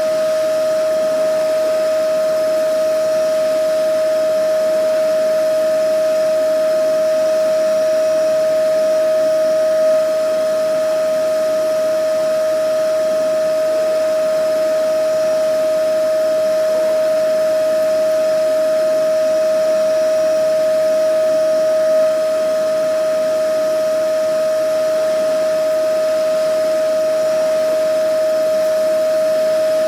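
Vacuum cleaner motor running steadily: one constant high whine over an even rushing hiss.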